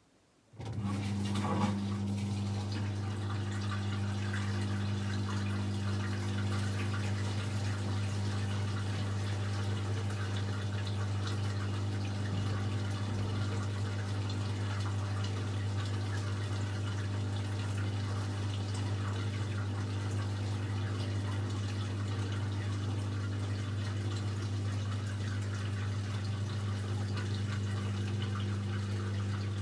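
AEG Electrolux Lavamat L74810 washing machine running water, most likely filling through its inlet valve. It starts suddenly about half a second in and goes on steadily: a low electric hum under the rush of water.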